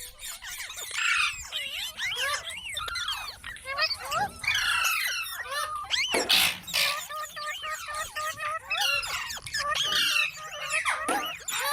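Rose-ringed parakeet chattering: a continuous stream of quick squeaky chirps and whistles that slide up and down in pitch, with one harsh, raspy squawk about six seconds in.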